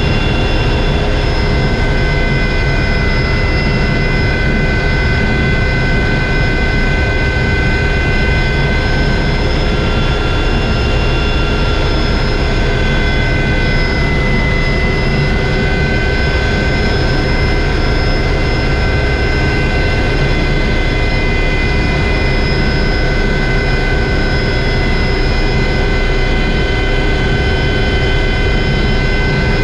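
Helicopter in flight: a steady turbine whine with several high tones over a dense low engine and rotor rumble, loud and unbroken.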